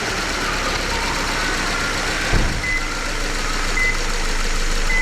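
Subaru Impreza's FB16 1.6-litre flat-four engine idling steadily. A brief thump comes about halfway through, and three short high beeps sound about a second apart in the second half.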